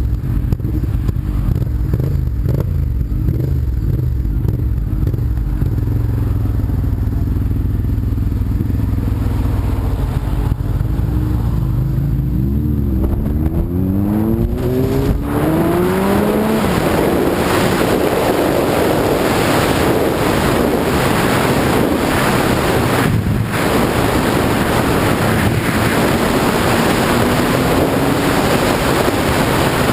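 Sport-bike engine running steadily at low revs, then revving up through the gears in a few rising sweeps. From about 16 seconds in, a rush of wind over the microphone at speed covers most of the engine.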